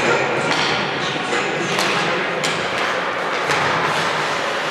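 Gym noise during a basketball game: a few sharp thuds, such as the ball bouncing on the hardwood court, over a steady din of voices and movement.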